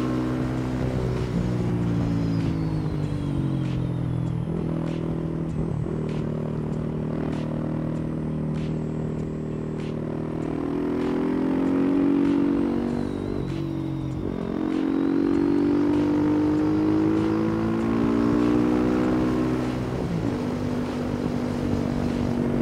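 Yamaha supermoto motorcycle engine under way, accelerating and backing off again and again, its pitch climbing and falling several times. Twice the pitch drops suddenly.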